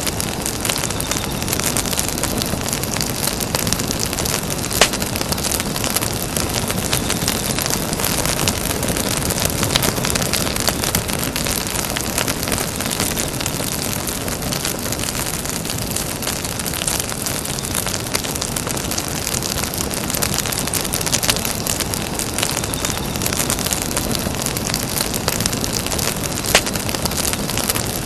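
Campfire burning: a steady hiss dotted with sharp crackles and pops, with two louder pops about five seconds in and near the end.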